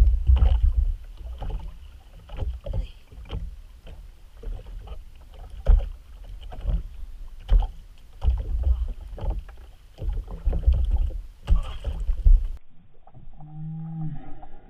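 Water slapping and knocking against a small wooden boat, with a gusty low rumble and irregular sharp knocks as a fisherman hauls in a hand line. Near the end it cuts off abruptly to quieter, muffled sound.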